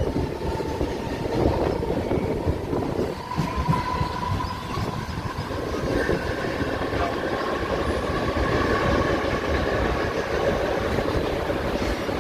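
Mumbai suburban electric local train running along the line, heard from inside the coach: a continuous rumble and rattle of wheels on track with a faint steady whine.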